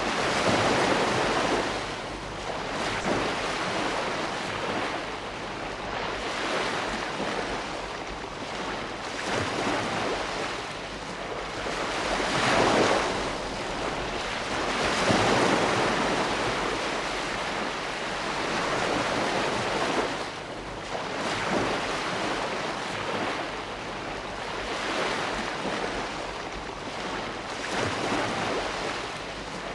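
Ocean waves: a continuous wash of surf that swells and ebbs every few seconds as waves break, the strongest surges about a second in and again around the middle.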